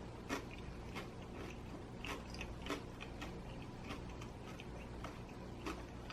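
A person chewing a bite of crispy pizza crust, with a few scattered crunches.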